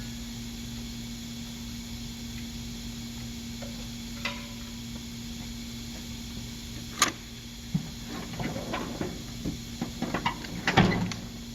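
Metal hand tools clicking and clinking during work on the wheel bearing assembly, over a steady background hum. A couple of single sharp clicks come first, then a run of irregular clicks near the end.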